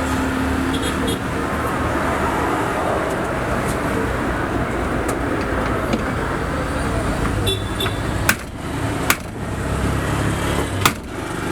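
Steady road traffic noise with a low hum, and a few sharp clicks in the last few seconds.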